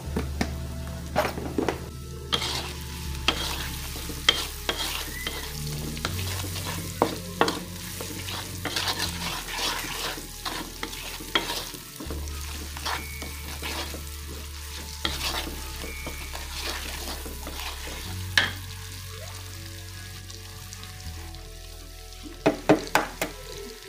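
Chopped onions and chilli sizzling in hot oil in a steel wok while a wooden spatula stirs them, knocking and scraping against the wok, with a quick run of knocks near the end. This is the aromatics being sautéed as the base for fried rice.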